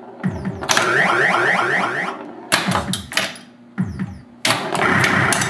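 1979 Williams Gorgar pinball machine in play: electronic sound effects with sweeping, gliding tones, mixed with many sharp clicks and knocks from the playfield. A short lull comes a little past the middle before the sounds pick up again.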